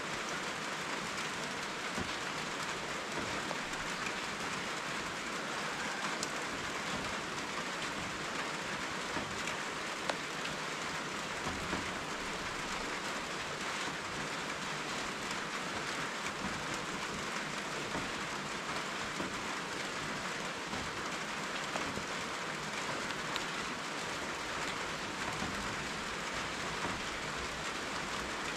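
Steady rain falling: an even hiss of many drops, with an occasional louder drop standing out.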